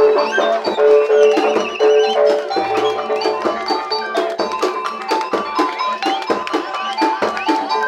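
Live jaranan gamelan music: quick drum strokes over steady ringing gong and metallophone tones, with a wavering high melody line.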